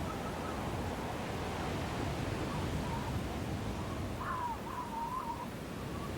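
Storm wind blowing steadily, with a thin whistle that wavers up and down and swells briefly a little after four seconds in.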